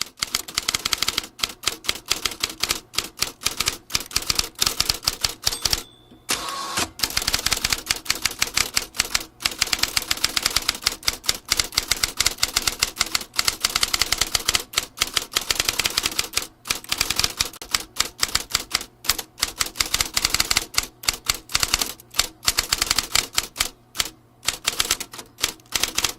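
Vintage manual typewriter being typed on: keys striking the platen in quick, continuous runs, with a brief pause about six seconds in.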